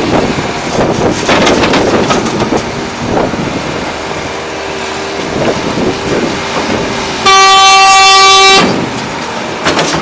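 Volvo EC380D excavator working a truck load, with clattering in the first couple of seconds and a steady hydraulic-pitched hum, then a loud horn blast held for about a second and a half near the end.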